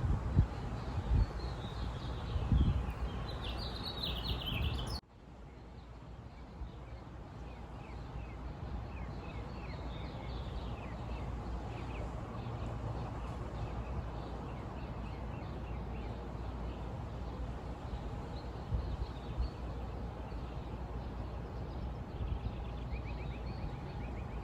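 Small birds chirping over a steady outdoor background rumble and hiss. The sound cuts off abruptly about five seconds in, then the background and chirps fade back up.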